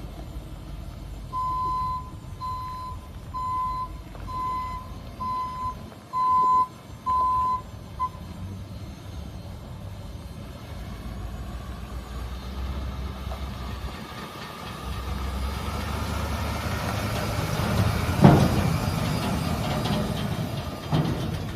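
Truck backup alarm beeping at a single steady pitch, about eight beeps over the first eight seconds, over the low running of a 2022 International CV515's 6.6-litre diesel. The engine then pulls away under load with a rising whine, and a single sharp thump, the loudest sound, comes about three-quarters of the way through.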